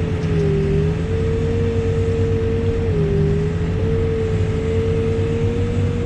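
Backhoe running steadily with a constant whine over a low engine hum. The whine's pitch sags briefly twice, about half a second in and again around three seconds in.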